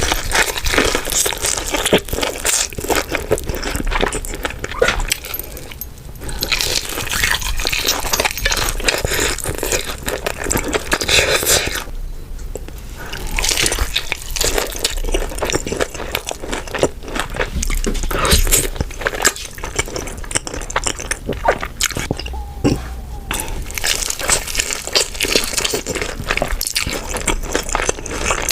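Close-miked eating of crispy hot chicken with Buldak noodles: crackly crunching bites and chewing, with a few short pauses.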